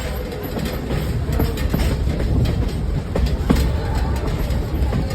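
Passenger train cars rolling along the track: a steady low rumble with irregular clicks and knocks from the wheels and couplings.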